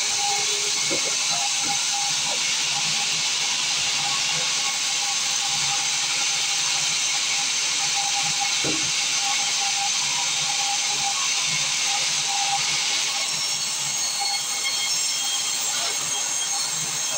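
Sawmill saw running steadily, giving a continuous loud hiss with a faint steady whine underneath and a few light knocks.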